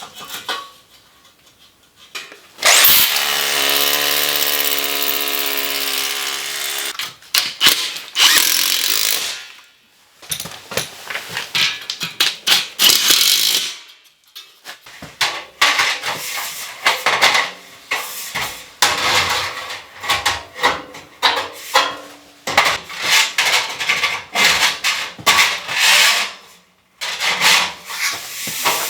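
A power tool runs steadily for about four seconds, starting about three seconds in. It is followed by a long stretch of irregular knocking, banging and scraping of hand building work.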